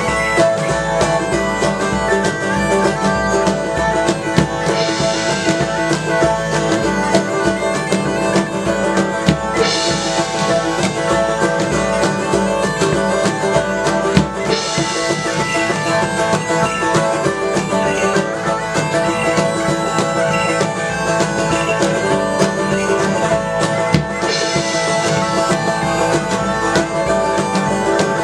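Live medieval-market folk band playing: bagpipes over a steady drone, with drums keeping a steady beat.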